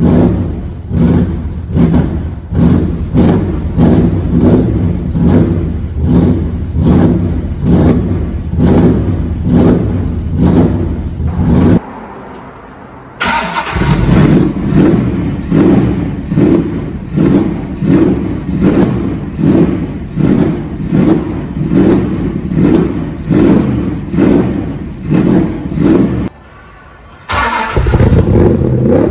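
Superformance Cobra MkIII's V8 exhaust running with a rhythmic pulse about twice a second. It drops away briefly twice, about twelve seconds in and again near the end.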